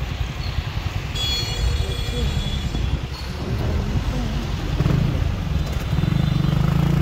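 Motorcycle and truck engines running at low speed, heard from the pillion seat as a steady low rumble. A thin high tone sounds for about two seconds, starting about a second in. A louder low engine drone rises in the last couple of seconds.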